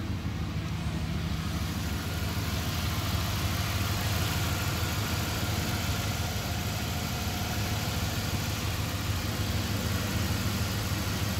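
Dodge Ram 1500's V8 engine idling steadily, just started after a new power steering hose was fitted and the system refilled with fluid.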